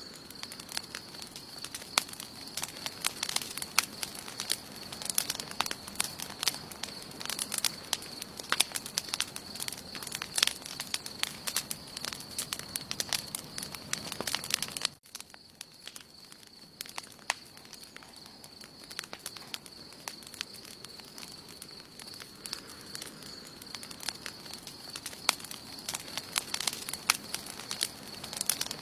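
Wood campfire crackling, with irregular sharp pops and snaps in quick succession, over a steady thin high-pitched tone. The sound drops out for an instant about halfway through, then resumes.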